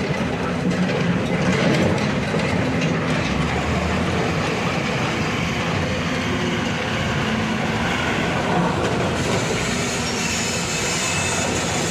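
Heavy diesel machinery, an excavator and dump truck, running with a steady rumble.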